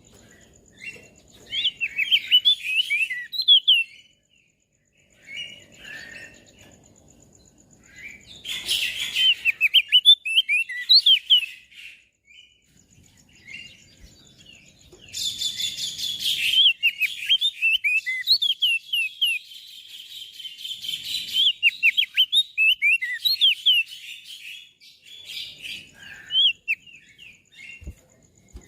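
Crested white-eye (opior jambul) singing: phrases of rapid, quick-gliding chirpy notes broken by short pauses. Twice a short burst of hissing noise sounds over the song, about a third and halfway through.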